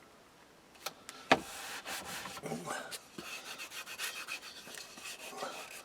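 Sticky-back felt being laid onto a wooden domino stand and rubbed down by hand: two sharp clicks about a second in, then a steady scratchy rubbing as the felt is smoothed flat.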